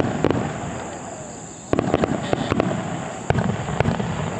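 Aerial firework shells bursting: a loud bang at the start, a quick run of sharp cracks and bangs from about a second and a half in, and two more bangs a little later, each echoing.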